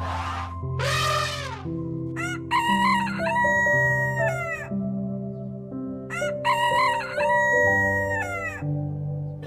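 A rooster crowing twice, each crow a long multi-part call of about a second and a half, with a shorter call just before, over soft background music with held notes.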